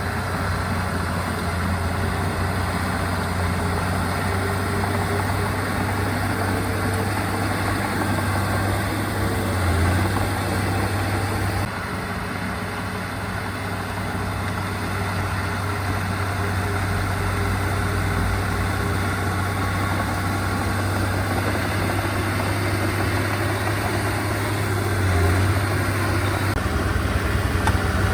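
Diesel engine of heavy earthmoving equipment running steadily at low revs with a deep hum. It swells briefly about ten seconds in and again near the end, and the level steps down abruptly around twelve seconds in.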